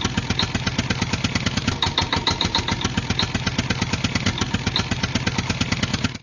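Tractor engine chugging at a fast, even beat of about a dozen thumps a second, cutting off suddenly at the end.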